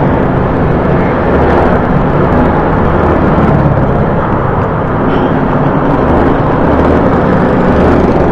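Loud, steady wind buffeting on a helmet-mounted action-camera external mic while riding a motorcycle with the visor open, with the motorcycle's engine drone underneath. The wind noise still comes through the DIY anti-wind cover, since the mic sits in front of the mouth in the open airflow.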